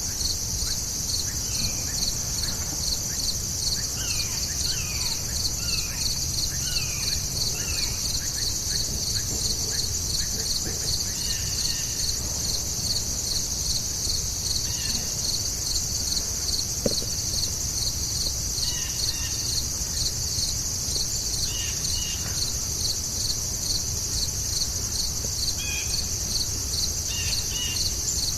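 A steady, evenly pulsing insect chorus, with birds giving short downward-sliding chirps: a run of them in the first several seconds, then scattered calls. A single sharp click about midway.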